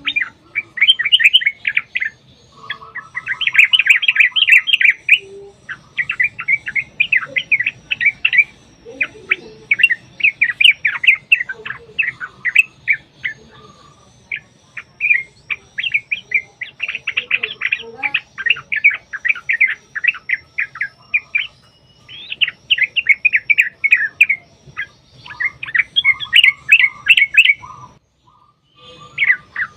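Yellow-vented bulbuls (trucukan) calling in long runs of fast, loud chattering notes, burst after burst with brief pauses between. This is the rapid "ropel" chatter of excited or sparring birds, of the kind played as a lure to make other bulbuls answer.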